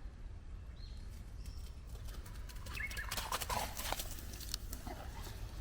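Footsteps crunching and rustling over the forest floor, thickest for about a second past the middle, over a low steady rumble, with a few faint bird chirps early on.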